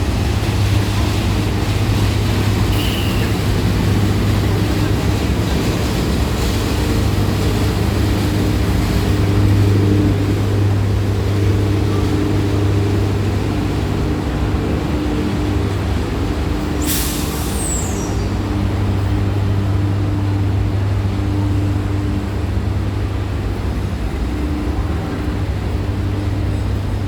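Diesel locomotive engine of an arriving passenger train running with a loud, steady low drone. About two-thirds of the way through, a brief sharp hiss of air from the brakes.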